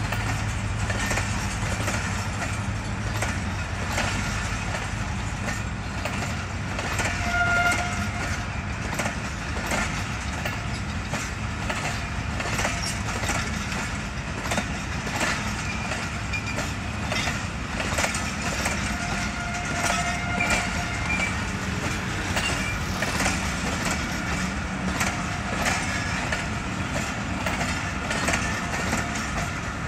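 Passenger coaches of a departing train rolling past, a steady rumble with the wheels knocking irregularly over the rail joints.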